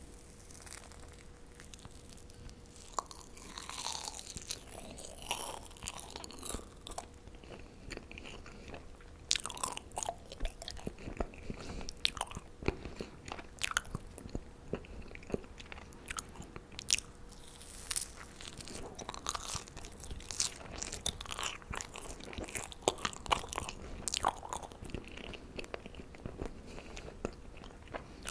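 Close-miked chewing of marshmallows: sticky, squishy mouth sounds with many irregular sharp wet clicks, busier in a few stretches.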